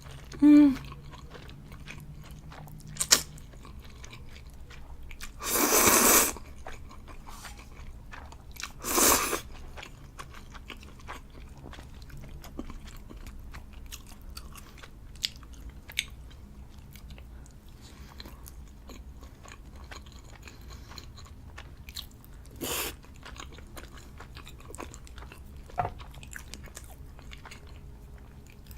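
A person eating Samyang instant noodles close to the microphone: soft chewing and scattered mouth clicks, with three short, loud, noisy slurps about five, nine and twenty-three seconds in. A brief loud voiced sound comes right at the start.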